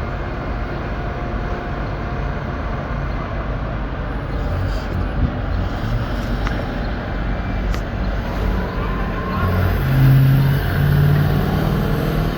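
Steady engine rumble of vehicles and machinery, with a few light clicks and a louder low engine note swelling about ten seconds in.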